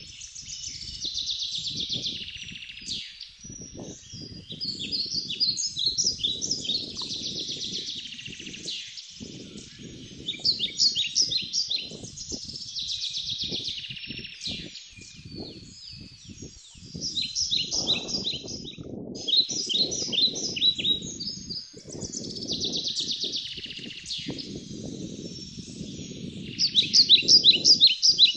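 Wild birds singing, repeating short phrases of quick, sharp chirps again and again, loudest near the end, over a low irregular rumbling noise.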